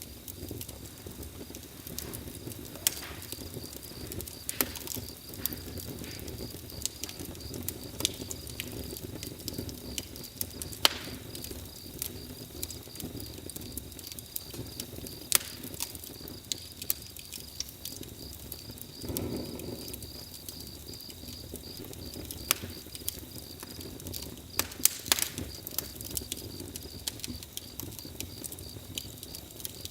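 Campfire burning, with irregular sharp crackles and pops over a low, steady rush of flame; a brief swell in the rush a little after the middle.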